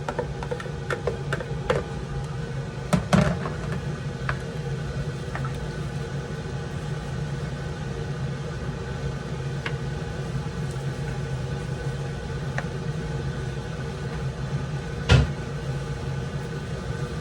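Steady background hum with scattered light clinks and knocks of a spoon against a cooking pot, and one sharper knock near the end.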